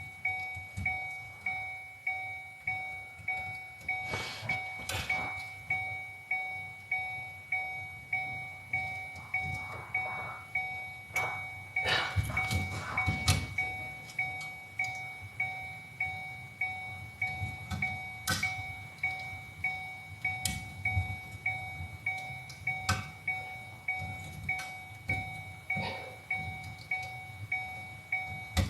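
A car's electronic warning chime dinging over and over at an even pace, about one and a half dings a second, as when a door is left open. Scattered clicks and knocks of hand work on the seat fittings sound over it, busiest around the middle.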